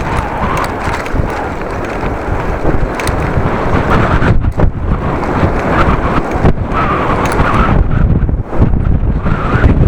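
Strong gusting wind buffeting the microphone of a camera on a moving bicycle: a loud, continuous low rumble that swells and dips with the gusts.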